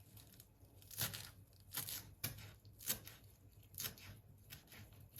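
Six short tearing, rustling sounds spaced about half a second to a second apart, like packaging or paper being handled and torn in a kitchen.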